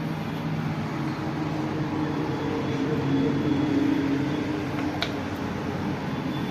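An engine running steadily, its pitch rising a little midway, with one sharp click about five seconds in.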